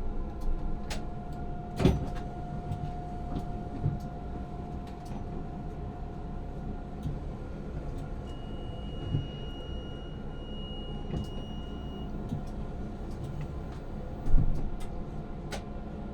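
Tram running sounds heard from inside the driver's cab: a steady electrical hum with occasional knocks and clicks, the sharpest about two seconds in and near the end. Around the middle a thin high beep holds for about four seconds, with a short break partway through.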